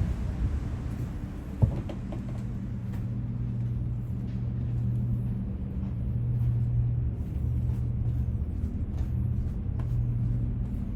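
Steady low hum of a cruise ship's machinery, a pitched drone that swells and eases slowly, with one sharp knock a little under two seconds in.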